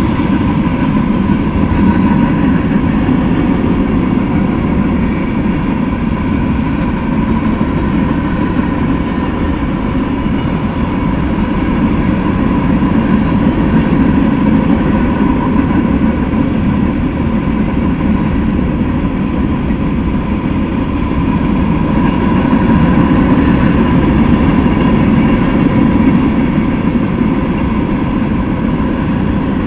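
Loaded freight train of open-top hopper cars rolling past on the rails: a steady, continuous noise of wheels on track.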